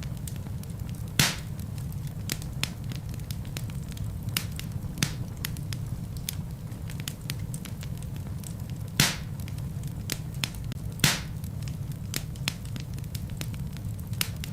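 Wood fire burning in a fireplace, crackling: a steady low rumble of the flames under frequent small, sharp pops of burning logs. Three louder pops stand out, one about a second in and two more later on.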